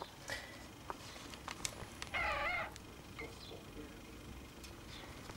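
One short, wavering, cat-like call of about half a second, a little over two seconds in, with a few faint clicks around it.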